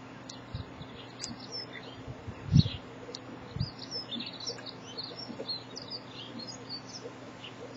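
Small birds chirping and twittering with many short, high calls, plus a few low thumps, the loudest about two and a half seconds in.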